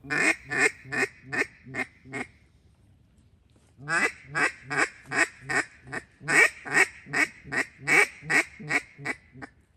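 Loud duck-style quacks in an even cadence of about two and a half a second: a run of six, a pause of under two seconds, then a longer run of about fourteen.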